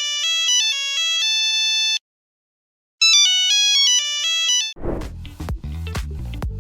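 Nokia ringtone: a short melody of clear electronic notes that ends on a held note, played twice with a one-second gap between. Near the end it gives way to dance music with a steady beat.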